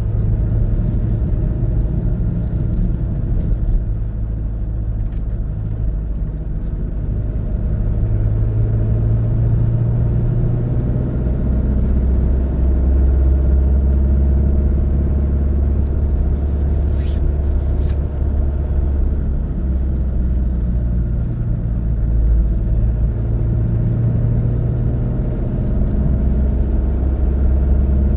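Car driving on a road: steady low engine and road rumble, with the engine note shifting up and down several times.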